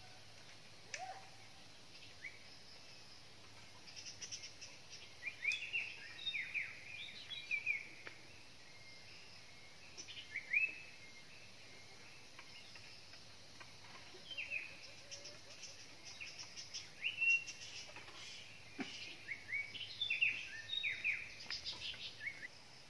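Small birds chirping in scattered clusters of short, quick calls that slide in pitch, with a few faint clicks over a quiet rural background.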